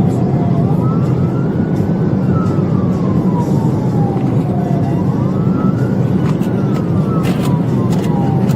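Police siren in a slow wail, rising and falling about twice, over loud, steady road and engine noise from a car driving at speed.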